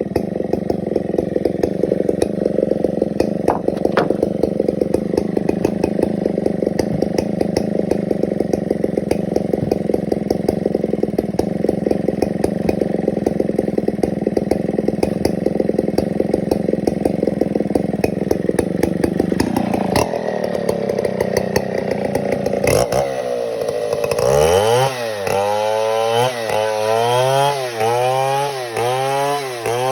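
Chainsaw running steadily while cutting wood. About twenty seconds in its pitch drops, and then it revs up and down about once a second.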